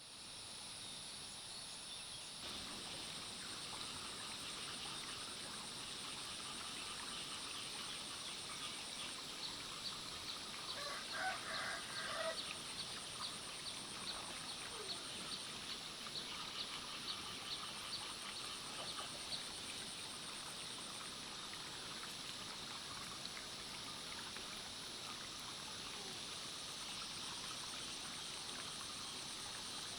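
Rural outdoor ambience: a steady high trilling of insects that pulses in long stretches, a quick run of ticking calls in the middle, and a short call from a fowl about eleven seconds in.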